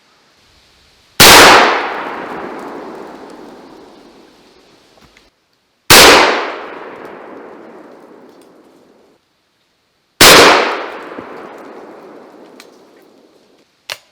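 Three gunshots about four and a half seconds apart, each a sharp, very loud crack followed by a long echo that dies away over several seconds. The shots are fired to cut down a high tree branch that could not be reached with a ladder or saw.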